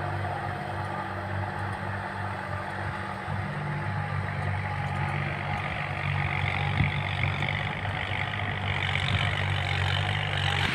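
Kubota tractor's diesel engine running steadily under load while rotary-tilling a rice paddy. A hiss builds in from about halfway.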